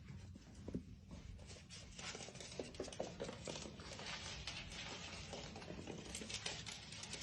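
Faint, irregular patter of small clicks and rustles.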